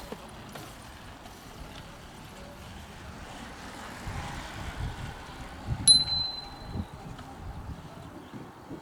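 A bell rings once about six seconds in, a clear high ring that fades within a second, over faint low outdoor rumble.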